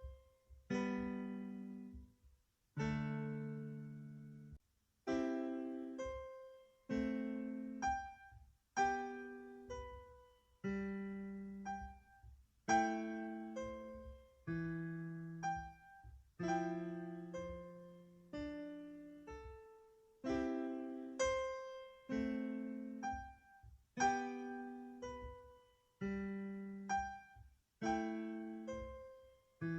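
Background piano music: a slow melody of struck notes and chords, each note ringing out and fading, roughly one every second.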